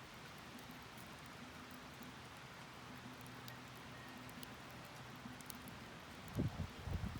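Wood campfire burning in a fire stand, faint crackles and pops over a soft steady hiss, with a few dull low thumps near the end.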